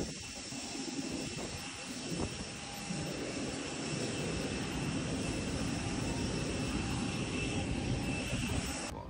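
Jet aircraft noise at the airport: a steady rushing rumble with high, steady whining tones from running jet engines. It cuts off suddenly near the end.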